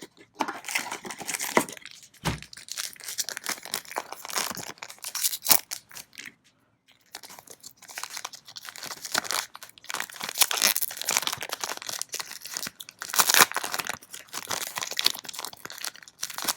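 Foil trading-card booster pack crinkling and tearing as it is worked open by hand, in irregular bursts of crackle with a short pause about six and a half seconds in; the wrapper is hard to open.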